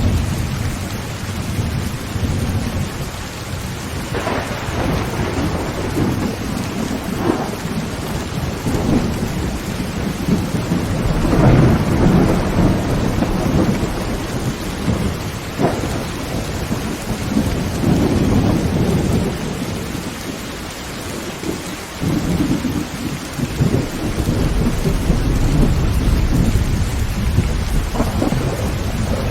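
Heavy rain drumming on a tin tent roof, with thunder rolling and rumbling several times and a few sharp cracks.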